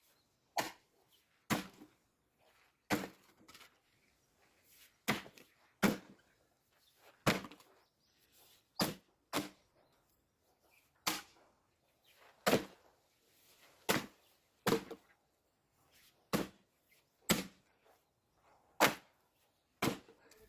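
Firewood logs knocking: a series of about sixteen sharp wooden knocks at uneven intervals of one to two seconds.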